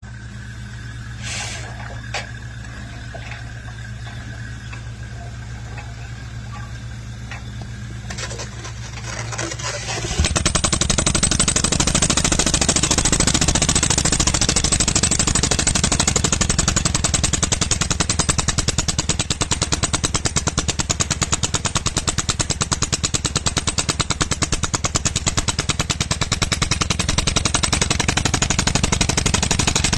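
Percussive rock drill boring a blast hole. An engine runs low and steady at first. About a third of the way in the drill's hammer starts suddenly, a loud, fast, continuous hammering as the bit works into the rock.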